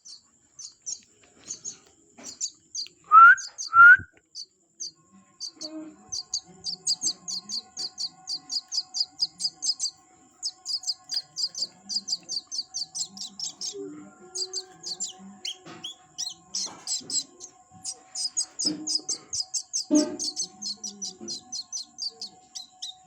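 A small bird chirping in rapid, high-pitched series of short notes, several a second. Two louder, lower calls come about three and four seconds in.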